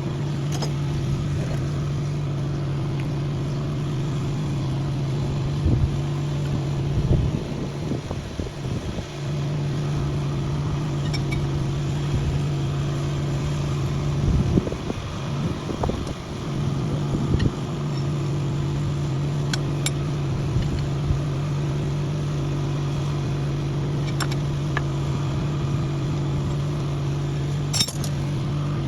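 A steady mechanical hum of a running motor or engine, twice broken for a few seconds by rougher, uneven noise, with a few sharp clicks scattered through.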